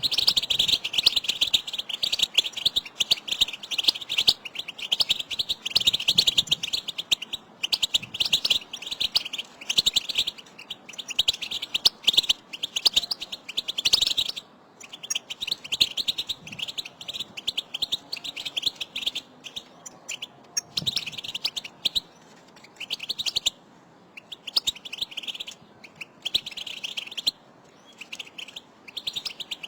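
European goldfinches twittering together: dense runs of quick, high chirps. About halfway through, the runs break into shorter bouts with pauses between them. This is the excited contact twitter that keepers play to spur a caged male goldfinch to sing.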